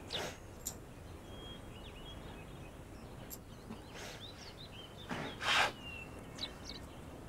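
Small birds chirping over a faint steady outdoor background, with a few short breathy sounds, the loudest about five and a half seconds in.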